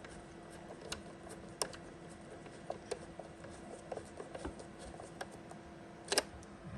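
Scattered small clicks and taps from hands working the controls of a Breville BES990 espresso machine, with one sharper click near the end, over a faint steady hum.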